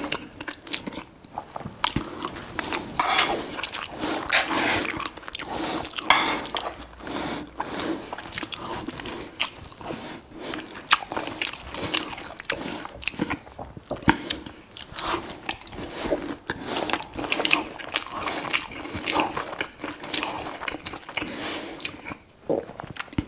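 Close-miked chewing and biting of burger patties and rice, with repeated short clicks and scrapes of a knife and fork on a plate.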